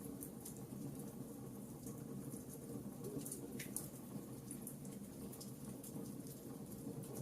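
Wood campfire crackling: irregular sharp pops and snaps over a steady low rumble of burning. A brief falling whistle comes about three and a half seconds in.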